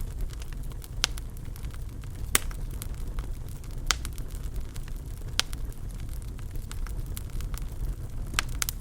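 Wood fire crackling in a fireplace: a steady low rumble of the flames with a scatter of small ticks and several sharp pops, roughly one every second and a half, and two close together near the end.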